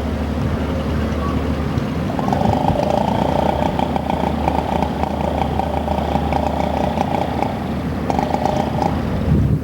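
Small boat engine running steadily with a low hum; a second, higher engine note joins about two seconds in and drops out briefly near the end.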